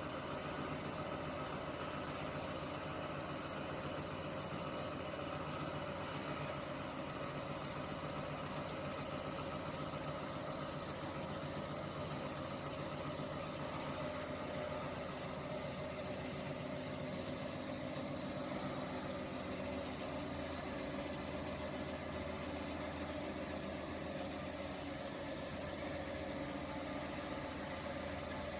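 Dyas 3 BDC-1200 machine with its bandsaw running steadily: a constant mechanical hum with a steady mid-pitched whine, unchanged throughout.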